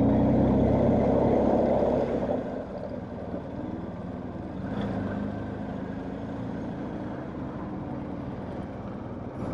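Motorcycle engines running at low speed in town traffic, loud for about the first two seconds, then dropping to a quieter steady hum.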